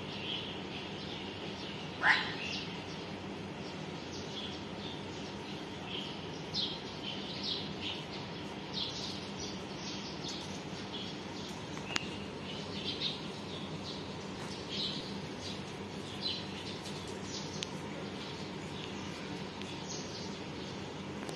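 Small birds chirping off and on throughout, short high calls over a steady low background noise, with one louder short call about two seconds in.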